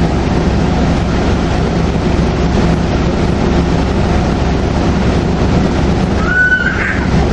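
A 2002 NABI 40LFW transit bus's Detroit Diesel Series 50 engine running at speed, a steady loud drone mixed with road noise. About six seconds in there is a brief high squeal that rises in pitch.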